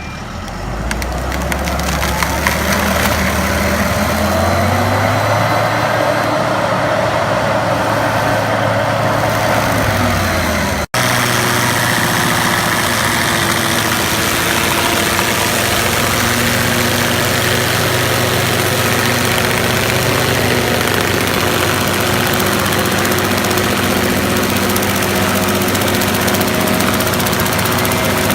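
Engine of a Prinoth RT200 machine with an S700 stump grinder running. The revs rise over the first few seconds and then hold steady. A sudden break comes about eleven seconds in, after which the engine runs on steadily at high speed.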